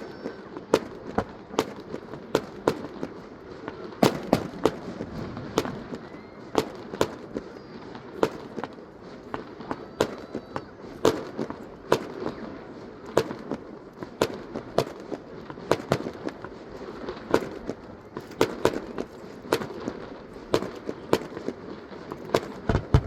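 Fireworks going off in a rapid, continuous string of sharp bangs, about two or three a second, over a steady background rumble.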